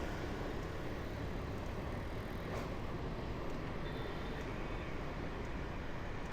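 Steady city street traffic noise with a low rumble, as heard while riding through the streets, with a faint brief high tone about four seconds in.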